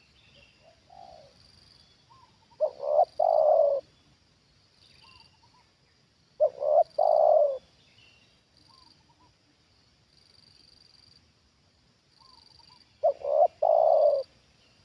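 Spotted dove cooing: three phrases, each of two short notes and a longer one.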